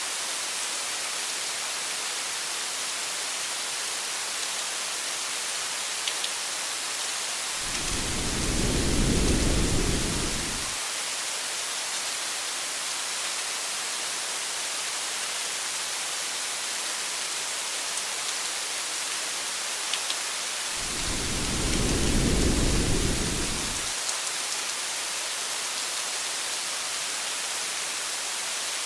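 Steady rain hiss, with two low rolls of thunder about three seconds long each, one about eight seconds in and one near twenty-one seconds in.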